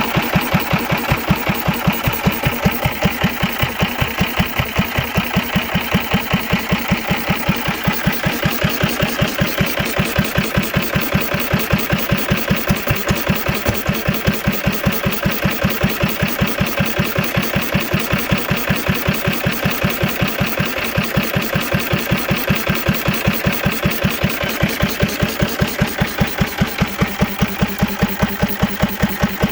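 1930 Hercules JI "Economy" single-cylinder stationary engine running steadily under its throttle governor, firing on every cycle in an even beat of a few exhaust pulses a second.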